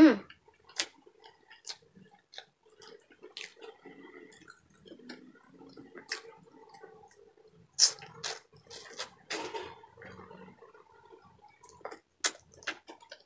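Close-miked eating sounds: wet chewing and lip-smacking of saucy pork and chicken adobo eaten by hand, with scattered sharp clicks and smacks, the loudest near the middle. A brief loud sound falling in pitch comes right at the start.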